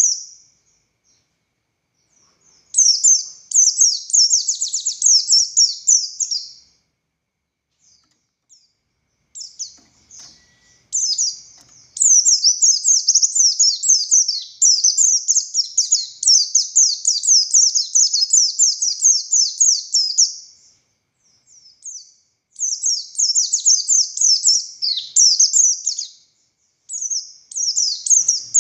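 A pleci buxtoni white-eye sings long, rapid phrases of high, fast-repeated twittering notes, a full 'ngalas' song. The phrases are broken by short pauses, and the longest runs about eight seconds in the middle.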